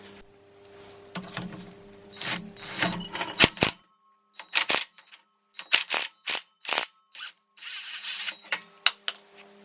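Metal hand tools and engine parts being worked on a Honda CB450 motorcycle engine on the bench: a string of sharp metallic clinks and knocks, with two short spells of rapid clicking like a ratchet.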